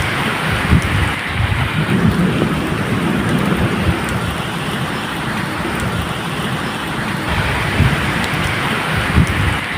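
Steady medium rain falling, with low rolling thunder rumbling underneath and swelling now and then.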